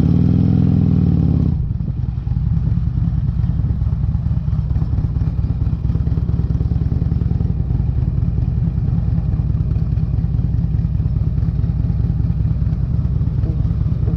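2008 Harley-Davidson Electra Glide's V-twin running through Vance & Hines exhaust pipes while under way. The revs rise and drop back in the first second or so, then the engine holds a steady pace.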